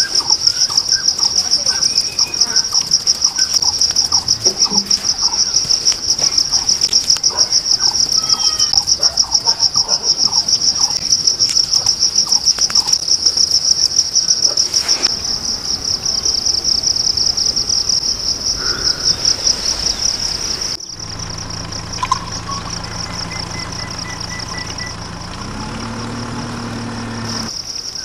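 Insects trilling in one loud, continuous, rapidly pulsing high chirr, typical of crickets, with faint bird chirps beneath.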